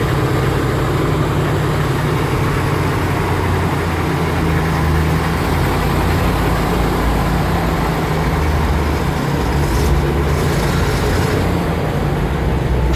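GMC 6500 dump truck's V8 engine running at a steady low speed, with a brief hiss about ten seconds in.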